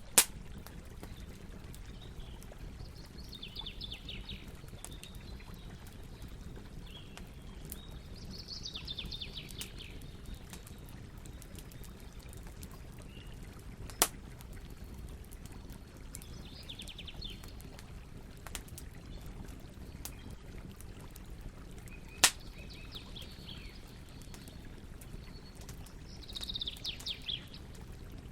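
Campfire burning with a steady low rush and three sharp pops from the wood, the loudest about 14 and 22 seconds in. A bird sings short, rapid trilled phrases about five times in the background.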